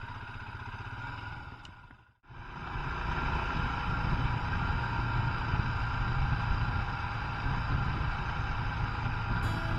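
Royal Enfield Himalayan's 411 cc single-cylinder engine running steadily on the move, with road and wind noise. The sound briefly cuts out about two seconds in, then comes back louder.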